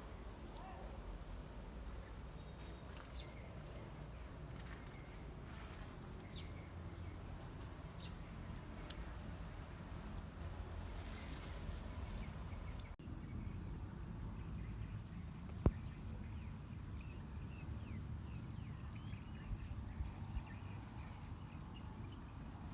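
A bird giving six short, sharp, high-pitched chirps, spaced unevenly a couple of seconds apart, over faint low outdoor background noise. A single sharp click follows a few seconds after the last chirp.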